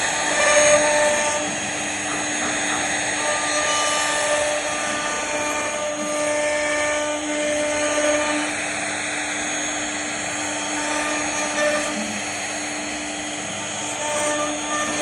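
CNC router spindle running steadily while its bit carves a relief into wood. It is a constant hum, with higher whining notes that come and go.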